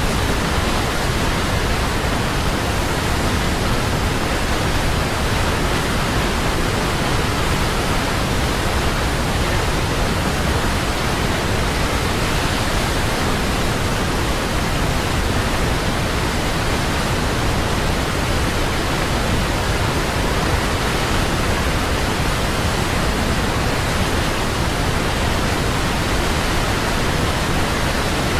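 Large waterfall: a steady, loud rush of falling water with no breaks or changes.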